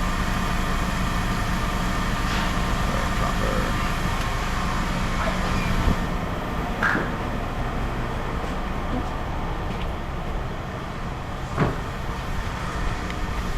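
An engine running steadily with a low hum, and a few sharp knocks about six, seven and twelve seconds in.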